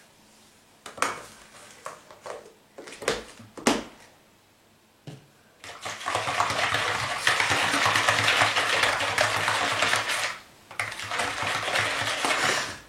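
A few sharp clinks of kitchen utensils, then a spoon stirring briskly in a bowl of milk, sugar and yeast, a rapid scraping clatter that pauses briefly and goes on.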